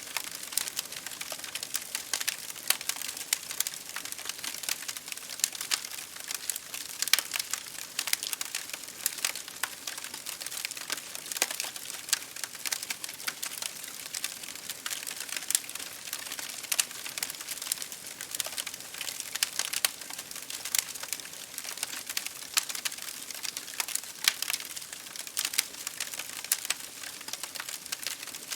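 Campfire crackling: a dense, continuous patter of small wood crackles, with sharper pops scattered throughout.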